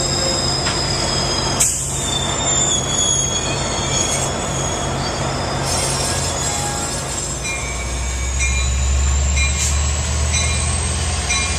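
Train rolling through, its wheels squealing against the rails in several high, steady tones over a low rumble that gets louder about eight seconds in.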